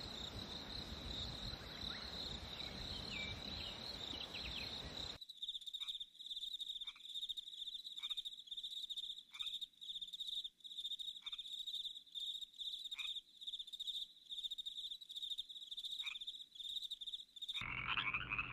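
Frogs calling: a high, steady, fast-pulsing trill with a faint short chirp about every second and a half. For the first five seconds it sits over a rushing forest background that then cuts out. Near the end a lower, raspy tree-frog call takes over.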